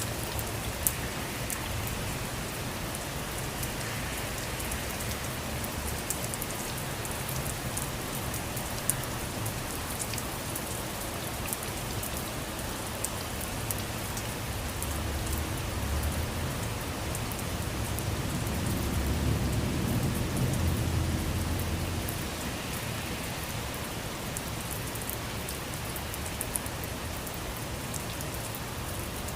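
Steady rain falling, a continuous hiss with individual drops ticking sharply on a surface. A low rumble swells and fades about two-thirds of the way through.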